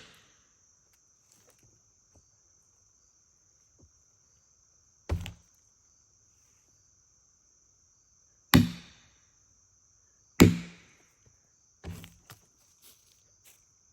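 Heavy, sharp strikes a few seconds apart, three loud ones each ringing briefly, then a couple of lighter knocks near the end, over steady high-pitched chirring of crickets.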